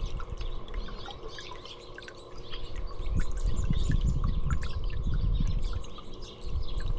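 Small songbirds chirping again and again with short, high calls, over a loud, irregular low rumble that starts about two and a half seconds in and dips briefly near the end.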